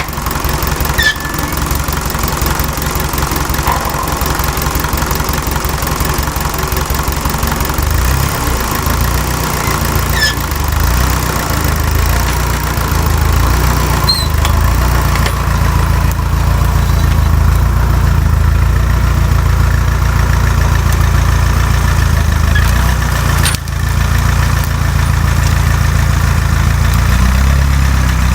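Fiat 352C tractor engine running steadily while pulling a plough. Its note shifts and grows a little heavier about eight seconds in, with a brief dip about three quarters of the way through.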